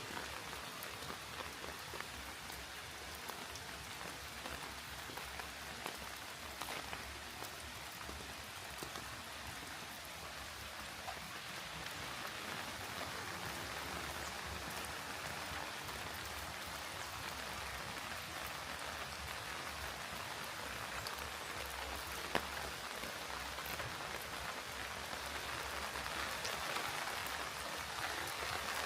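Steady rain falling, an even patter with scattered sharper drop ticks, growing slightly louder toward the end.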